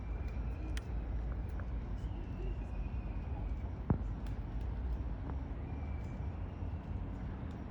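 Outdoor park ambience: a steady low rumble of background noise, with faint thin high calls and a sharp click about four seconds in.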